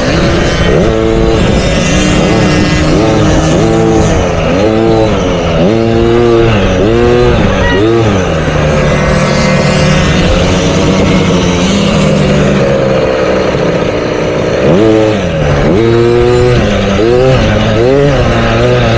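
Motocross dirt bike engines on the track, revving up and falling back again and again as the bikes accelerate, shift and brake, with a longer steady pull in the middle.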